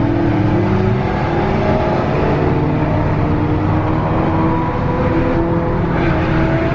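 Inside the cabin of an MK7 Volkswagen Golf R, its turbocharged 2.0-litre four-cylinder pulling steadily at highway speed, the engine note climbing slowly as the car gains speed, over steady tyre and road noise.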